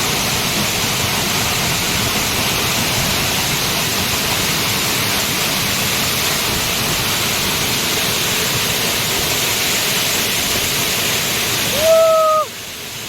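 Steady rushing of a waterfall heard close up. Near the end comes a short pitched voice-like sound, and the rushing drops away abruptly.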